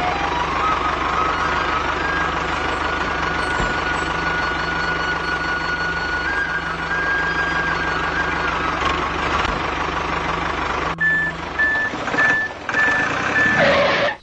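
Tractor engine running steadily, with a thin whine wandering in pitch above it. From about eleven seconds in, a reversing alarm beeps about twice a second.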